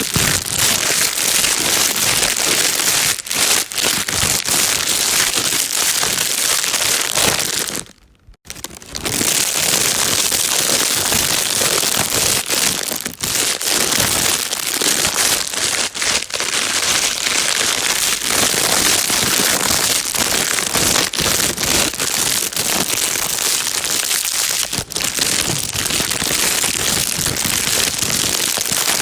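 Plastic bag being crinkled without a break, a dense crackling rustle, except for one pause of under a second about eight seconds in.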